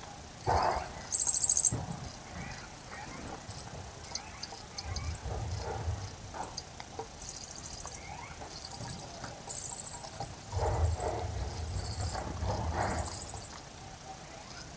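Outdoor garden ambience with short, very high, rapid chirping trills repeated about five times and scattered brief chirps, with low rumbling stretches about a third of the way in and again near the end.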